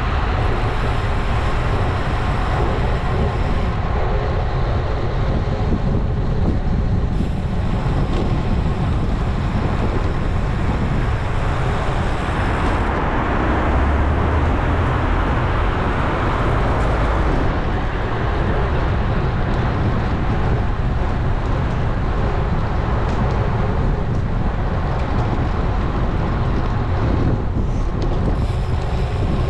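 Steady rush of wind and road noise on a GoPro action camera's microphone while riding a road bike, with heavy low rumble.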